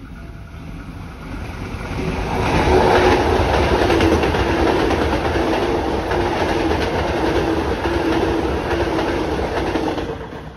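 A KRL commuter electric multiple unit running past close by. The rumble of its wheels on the rails swells over the first couple of seconds, holds steady with a regular beat a little under once a second, then falls away quickly near the end.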